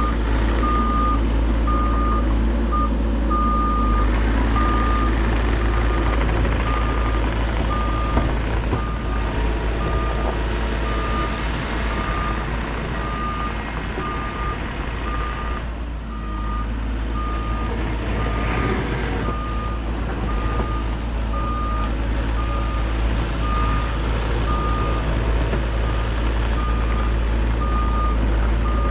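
Bobcat E50 compact excavator's diesel engine running under work, with its travel alarm beeping about once a second as the machine tracks.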